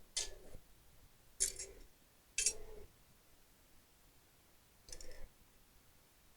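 Short clicks and rattles of laptop parts being handled during reassembly, four times, with quiet between.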